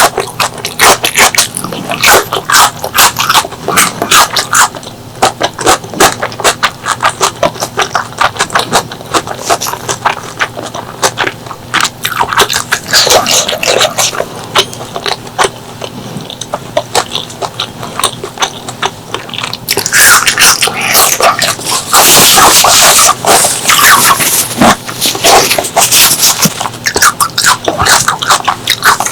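Close-miked eating of pork leg curry and rice: wet chewing and lip smacks in rapid clicks. A louder, hissier stretch comes about twenty seconds in.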